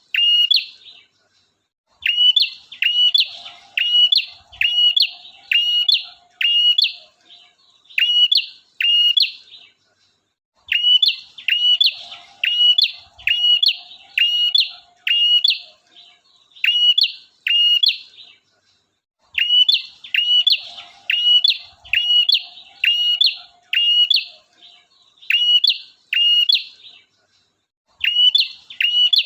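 Male prinia (prenjak) singing nonstop: sharp, high, hooked notes repeated about one and a half to two times a second in long runs, with a short pause about every eight seconds. A fainter, lower twitter sounds beneath each run.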